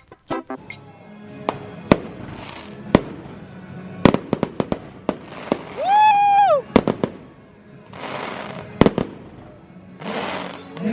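Fireworks going off: a string of sharp bangs at uneven intervals, with crackling bursts and one short whistle about halfway through that rises and then falls away.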